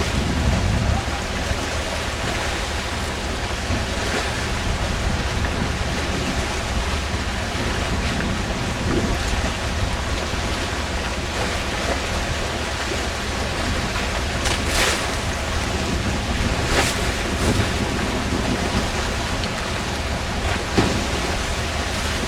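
A fishing boat's steady engine hum under a constant rush of wind and sea, with a few short knocks in the second half.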